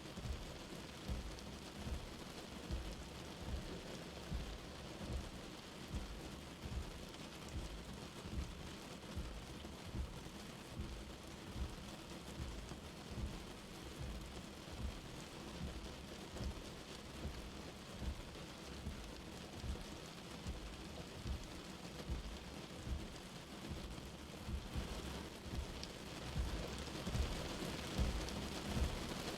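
Light rain falling steadily, with frequent soft low thuds of drops landing on a surface. The rain grows louder near the end.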